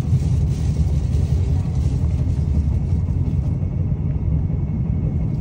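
Steady low rumble of a KTM passenger train running along the line, heard from inside the carriage.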